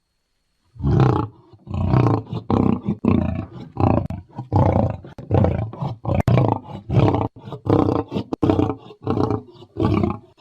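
Lion roaring: after about a second of silence, a long run of short roars repeating roughly twice a second.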